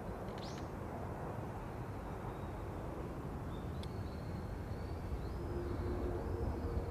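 Distant jet airliner noise, a steady rumble that grows a little louder near the end, with thin whining tones over it. A short high chirp comes about half a second in.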